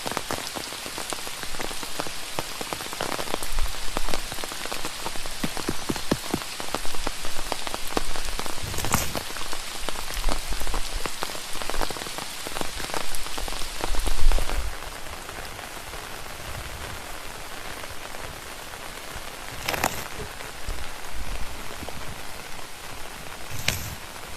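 Steady rain with many individual drops striking close by. The heavier dripping eases about fifteen seconds in, and a few sharper single taps stand out.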